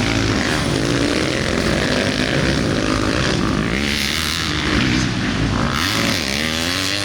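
Dirt bike engines revving up and easing off in turn as the bikes ride the track, with at least two bikes heard at once.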